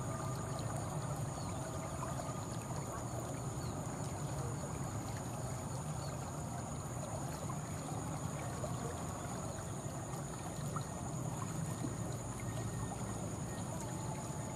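Distant diesel-hauled passenger train running past, a steady low rumble of locomotive and wheels with no change in level. Two steady high-pitched tones sit above it.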